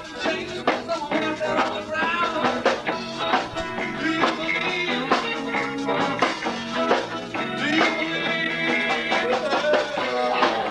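Live rock trio playing: an electric guitar melody with bending notes over bass guitar and a steady drum beat.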